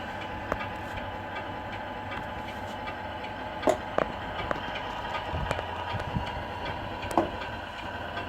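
Radio-controlled Scania R470 model truck running: a steady mechanical hum with a few sharp clicks, the loudest near the middle and again about seven seconds in.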